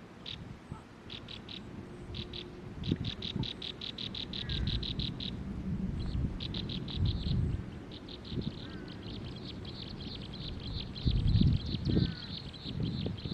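A bird trilling: runs of rapid, high, evenly pulsed notes, about ten a second, that stop and start and then run on unbroken from about two thirds of the way in, with a few faint short downward-slurred calls. Low rumbling noise comes and goes underneath and is loudest near the end.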